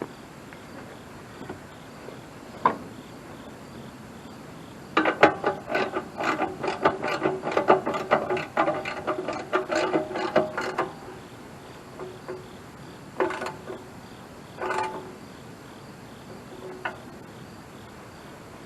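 Hand ratchet wrench clicking fast as a bolt is run in on a newly fitted sawmill starter, a run of about six seconds of rapid ticks, then a few single clicks near the end as it is snugged.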